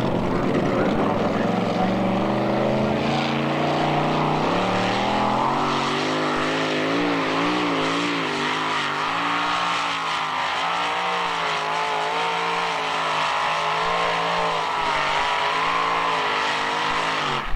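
Two-wheel-drive pulling truck's engine at full throttle during a pull. Its pitch climbs over the first five seconds or so, then holds high, wavering up and down.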